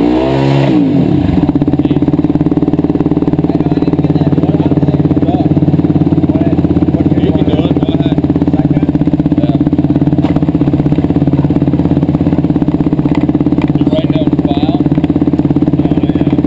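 Yamaha YFZ450 single-cylinder four-stroke engine on a dyno stand, just started: its revs sweep and settle in the first second, then it idles steadily in neutral.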